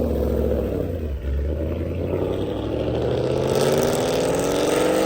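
A car's engine and exhaust accelerating, the pitch rising steadily from about halfway through.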